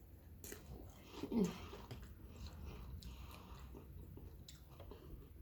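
A person chewing food close to the microphone, with scattered small clicks of the mouth and food. A short hummed 'mm' of enjoyment comes about a second in.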